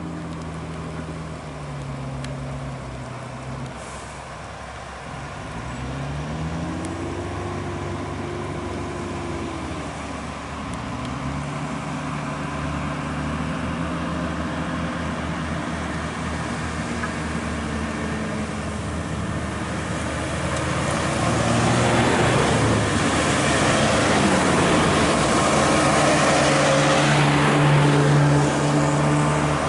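Volvo FH16 550 truck's diesel engine pulling under a heavy load. Its pitch climbs and drops in steps several times, as with gear changes. It grows louder and noisier from about two-thirds of the way in as the truck comes close.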